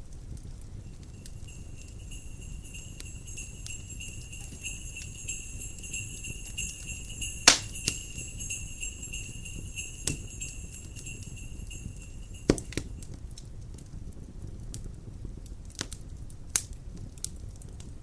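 Jingle bells ringing steadily for about twelve seconds and stopping shortly after the middle, over a crackling fireplace with a low rumble. Scattered sharp pops from the fire run throughout; the loudest comes about halfway through.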